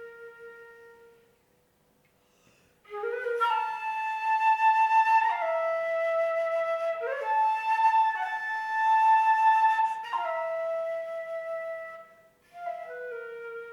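Unaccompanied solo flute: a soft held low note dies away, a short pause, then a louder phrase of long sustained notes with bends between pitches, and another soft held low note begins near the end.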